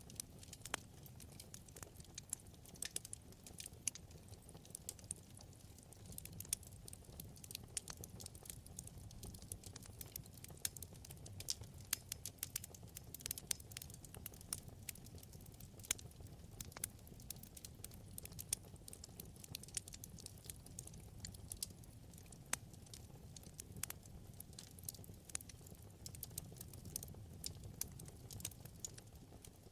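Wood fire burning in a fireplace: dense, irregular crackling and popping of the burning logs over a soft low rush of the flames.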